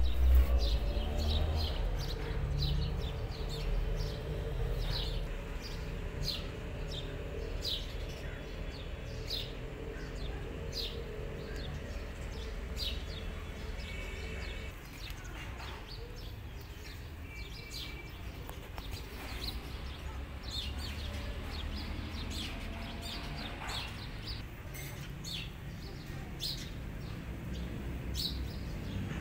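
Small birds chirping, many short separate chirps scattered throughout, over a steady low rumble.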